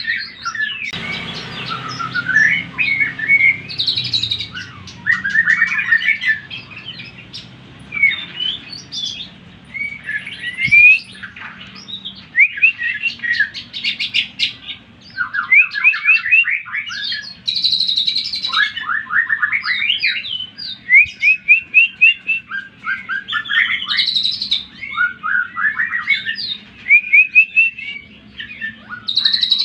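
Cucak ijo (green leafbird) singing a loud, fast, varied song of whistled phrases and quick runs of repeated notes, in the agitated, fighting style used to provoke other cucak ijo.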